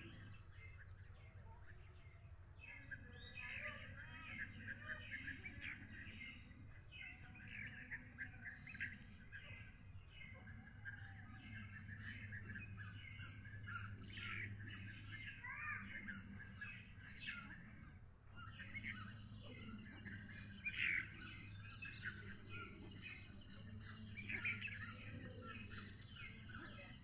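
Many small birds chirping and calling at once, an overlapping stream of short, high notes with occasional harsher squawks.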